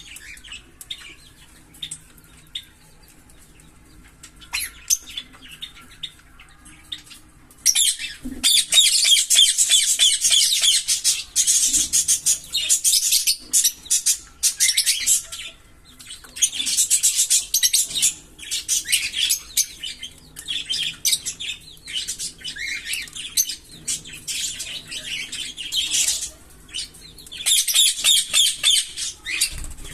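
A pair of Fischer's lovebirds chirping. At first there are scattered single chirps and clicks; from about eight seconds in come long runs of rapid, high-pitched chattering, each lasting a few seconds, with short pauses between them.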